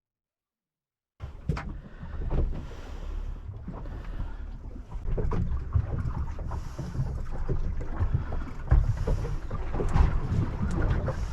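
Wind buffeting the microphone and water slapping against the hull of a small plastic boat, with many short knocks and thumps. It starts about a second in, after a moment of dead silence.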